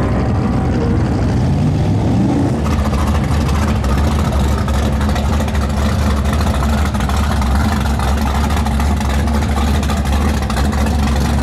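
Race cars running down a drag strip in the distance, with a faint rising engine note. About two and a half seconds in, a drag car's engine starts idling close by, loud and steady.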